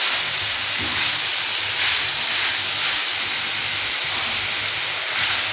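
Marinated chicken pieces sizzling in oil on a tawa (flat iron griddle) as a spatula stirs them through the spices. It is a steady frying hiss that swells a few times.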